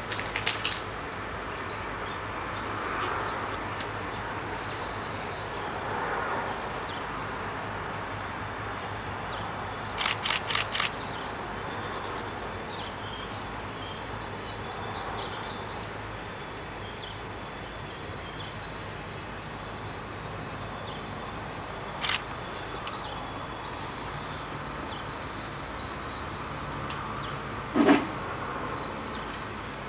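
Blue Train passenger coaches rolling steadily past: a continuous rumble of wheels on rail with a high, thin whine over it. A quick run of four clicks comes about ten seconds in, and a sharp knock near the end is the loudest sound.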